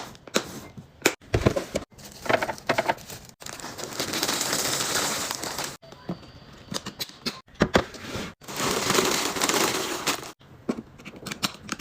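Restocking sounds: plastic packaging crinkling and crackling in two longer stretches, among many sharp clicks and taps of items being handled and set down.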